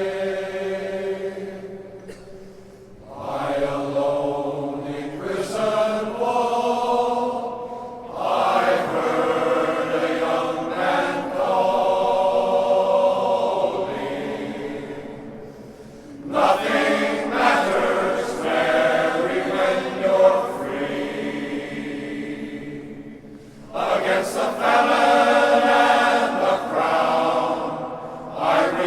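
Men's glee club singing in chorus, sustained sung phrases that swell and fade with short breaths between them, about every eight seconds.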